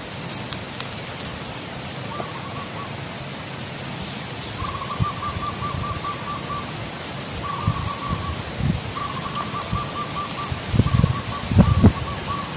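Zebra dove (perkutut) singing: runs of rapid, quavering cooing notes, each run a second or two long, starting about two seconds in. Loud low thumps come near the end.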